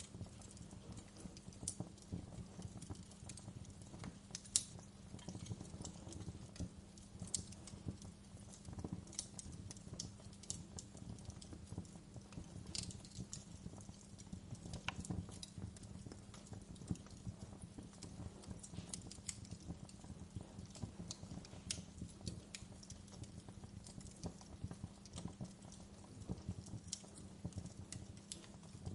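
Wood fire crackling: irregular sharp pops and snaps over a low, steady rumble, with one louder pop a few seconds in.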